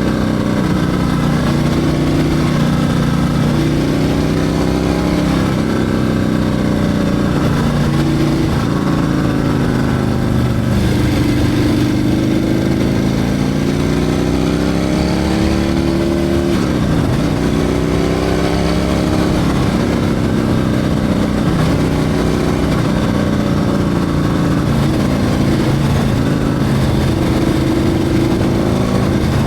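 Harley-Davidson Milwaukee-Eight 114 V-twin with a Screaming Eagle 447 torque cam, running under way with its note rising and falling with the throttle. It climbs steadily and then drops sharply about halfway through, then builds again.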